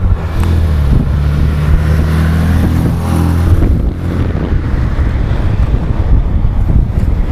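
1973 MGB GT's engine running as the car drives by, a steady engine note that gives way about halfway through to a rougher rumble as it pulls away down the road. Wind buffets the microphone throughout.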